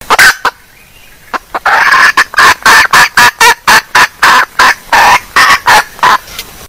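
Female junglefowl calling: two sharp notes at the start, then after a short pause a fast, even run of loud clucks, about three a second.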